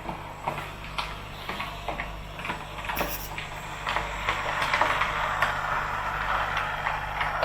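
N gauge model train running on the track: irregular clicks of the wheels over rail joints, with the running noise of the wheels and motor building up and getting louder from about halfway through.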